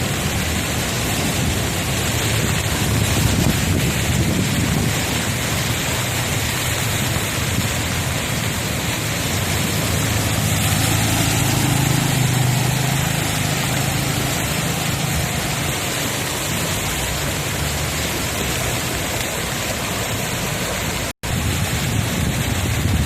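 Steady rushing noise of a flooded street in heavy rain, with a low vehicle rumble that swells and fades about halfway through. The sound cuts out for an instant near the end.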